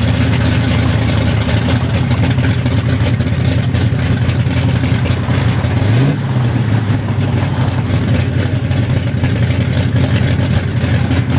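A classic car's engine idling loudly, with one quick rev about halfway through.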